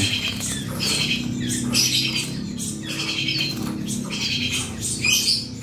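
Small caged birds calling over and over, a short falling chirp with a buzzy trill repeated about once a second, over a low steady hum.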